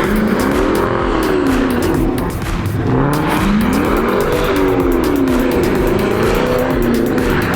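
Car engine revving up and down in repeated swells, with tyre noise, as a car spins donuts.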